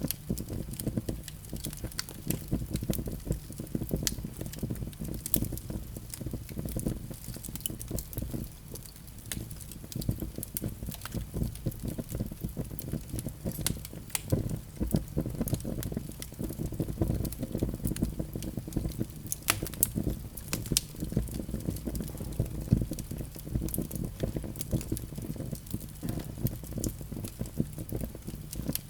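Wood fire in a fireplace crackling: many small, irregular sharp pops and snaps over the steady low rumble of the flames.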